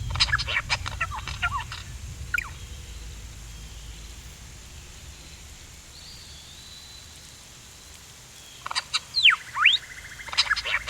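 A pteranodon cry sound effect: quick bird-like chirps and shrill screeching calls that sweep down and up in pitch. It plays once at the start and again near the end, with a quiet stretch between.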